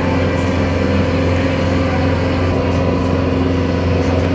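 Boat engine running at a steady speed, a constant low droning hum with no change in pitch.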